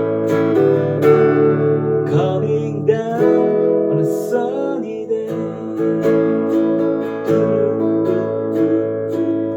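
Acoustic guitars strumming chords in a band performance, with sustained ringing chords and steady strum strokes.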